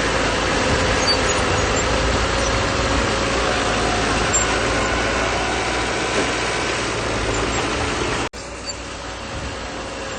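Heavy diesel earthmoving machinery running steadily, with a steady whine over the engine noise. The sound cuts out abruptly about eight seconds in and comes back a little quieter.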